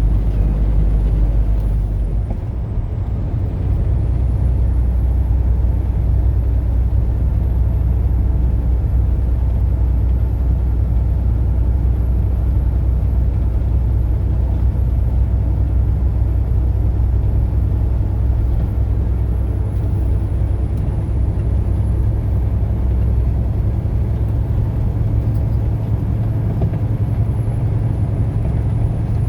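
A motor vehicle driving at highway speed: a steady, low rumble of engine and road noise, with a brief slight dip about two to three seconds in.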